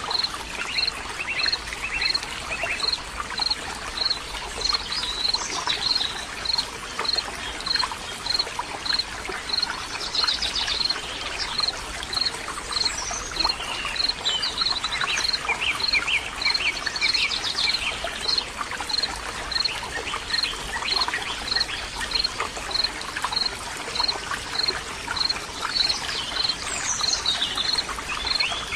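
Outdoor birdsong with chirps and short trills, over the steady rush of running water, with one high pip repeated evenly, a little under twice a second.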